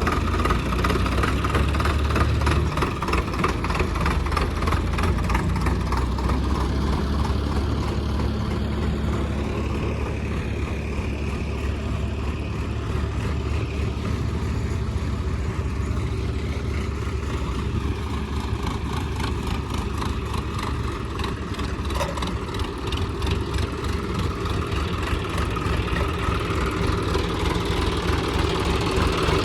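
John Deere tractor loader's diesel engine running steadily under work, with a fast, even firing beat.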